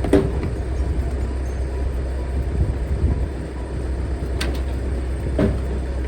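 Heavy engine running steadily under firewood-processing work, with a few sharp knocks: one at the start, two more near the end.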